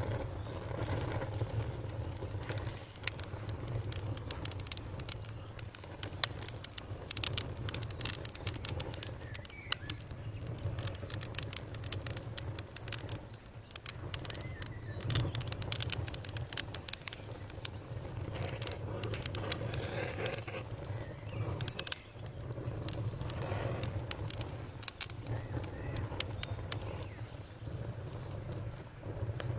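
Wood fire crackling with frequent sharp pops over a steady low rumble, with birds calling in the background.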